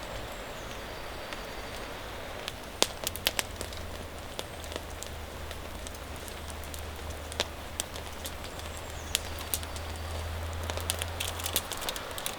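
Steady rain with scattered sharp pops and crackles from a wood campfire, in small clusters. A faint low hum comes in about three seconds in and stops near the end.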